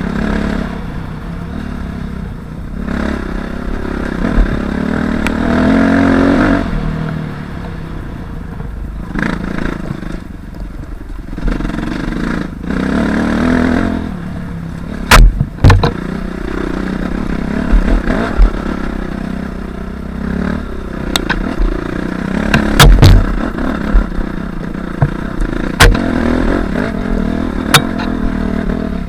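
Suzuki RM-Z250 dirt bike's single-cylinder four-stroke engine revving up and down while being ridden off-road. Sharp knocks and clatter come several times in the second half.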